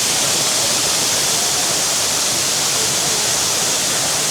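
A waterfall: falling water rushing in a loud, steady hiss with no break.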